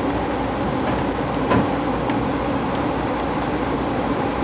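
Steady running noise of a passenger train car rolling along the rails, heard from inside the car, with one sharp knock about a second and a half in.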